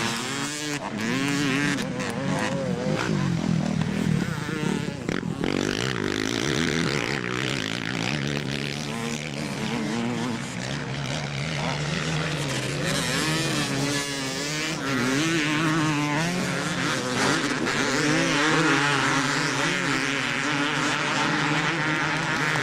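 Motocross motorcycles racing, their engines revving up and down continuously, with several engines overlapping.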